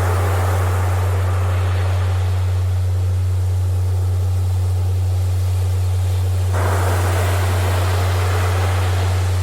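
A steady low tone, a healing-frequency track, held unchanging under the rush of ocean surf. The surf swells and a louder wash comes in suddenly about two-thirds of the way through.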